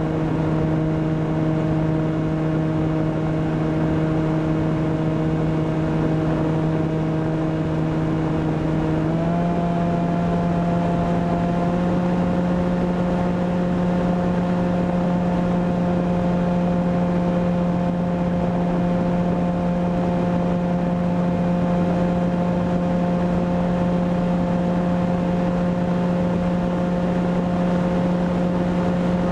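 Brushless electric motor and propeller of a Volantex Ranger EX RC plane humming steadily in flight, heard from the onboard camera. Its pitch steps up slightly about nine seconds in, then holds steady.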